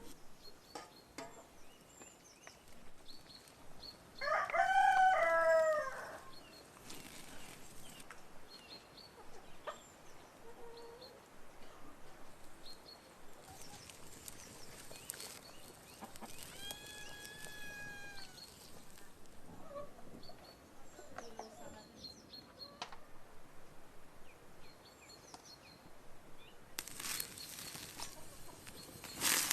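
A rooster crowing, one loud crow of several notes about four seconds in, with a fainter pitched call near the middle. Small bird chirps and scattered light clicks run underneath.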